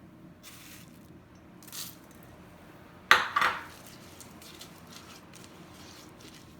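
A utensil clattering against a pot while the suet mixture is worked: two sharp knocks close together about three seconds in, with softer scraping and rustling before them.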